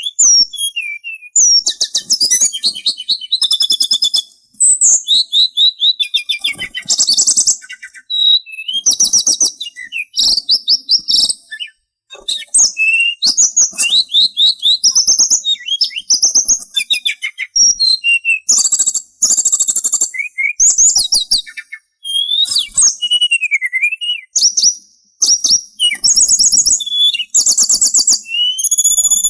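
A sulingan songbird singing a fast, varied chattering song. Rapid trills of repeated high notes mix with whistled slurs that rise and fall, nearly without pause.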